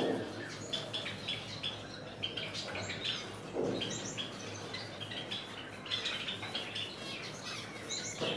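Small caged birds chirping: a steady stream of short, high calls from several birds. There are two brief duller noises, one at the start and one about three and a half seconds in.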